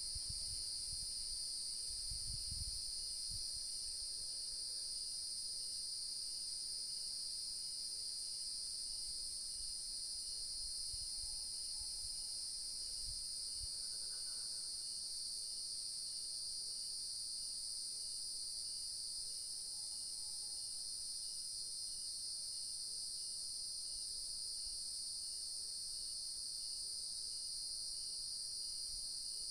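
Steady high-pitched chorus of crickets and other insects, with a fainter chirp repeating about once a second beneath it. A couple of faint, short distant calls come through around the middle.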